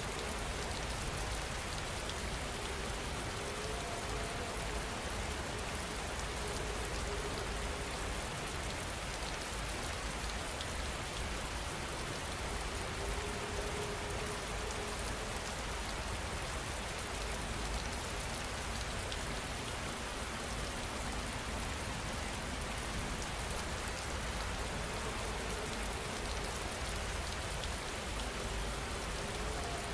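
Steady heavy rain falling and pattering on surfaces, without thunder.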